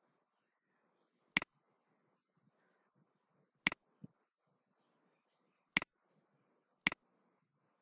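Computer mouse clicking four times, at uneven gaps of one to two seconds, each sharp click followed at once by a softer one.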